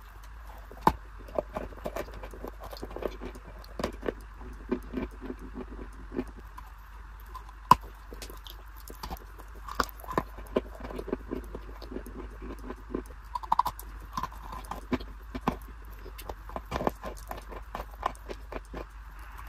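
Close-miked biting and chewing of a dry, crumbly block: a fast, irregular run of crisp crunches and snaps, the sharpest about a second in and near eight seconds in. A low steady hum runs underneath.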